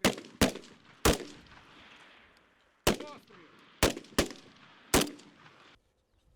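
Gunshots during weapons training: about seven single shots at uneven intervals, each followed by a short echo, cutting off suddenly near the end.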